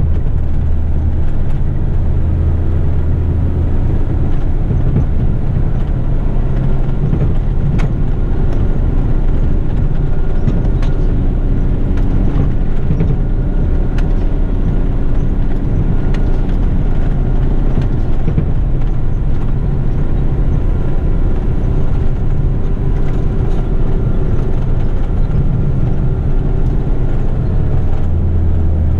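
Heavy rigid truck's diesel engine running with road noise, heard from inside the cab while driving; a steady low rumble whose engine note shifts in pitch as it goes.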